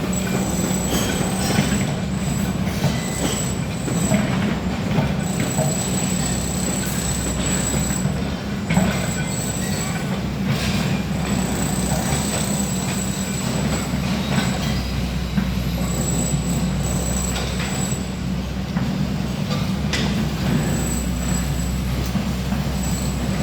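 Excavator running: a steady diesel engine hum with a high metallic squeal that comes and goes, and occasional clanks.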